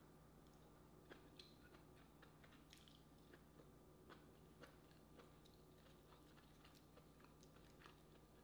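Faint chewing with small, irregular clicks and crackles of seafood being bitten and picked apart by hand.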